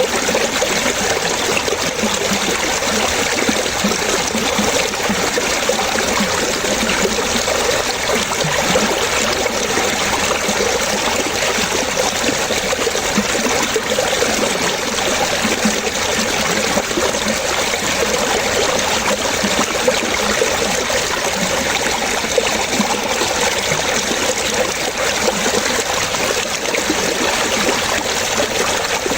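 Water trickling and splashing steadily, like a small stream.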